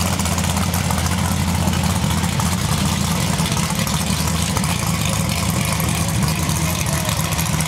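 1994 Ford Mustang GT's V8 idling steadily with a deep, low rumble while the car creeps forward.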